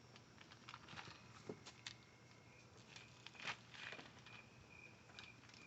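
Near silence with faint rustling and scattered light clicks, one louder click about midway. A faint high chirp starts repeating about twice a second in the second half.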